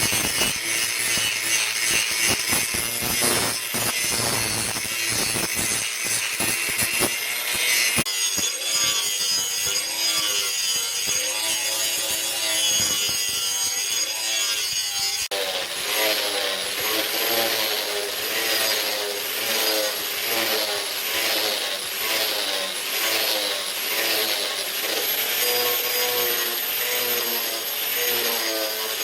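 Rhythmic back-and-forth scraping strokes of a hand tool working material, about two strokes a second in the later part, broken by two abrupt changes in sound.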